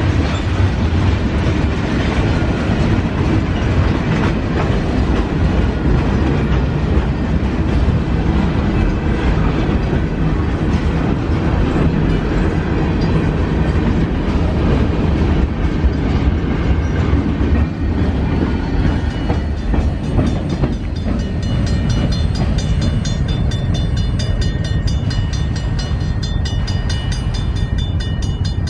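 A train rolling past, a steady loud rumble with the clatter of wheels over the rail joints; from about two-thirds of the way through, a finer, evenly repeating ringing pattern sounds higher up.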